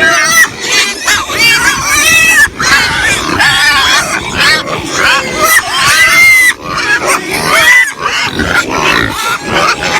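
Pigs squealing, many short overlapping squeals one after another.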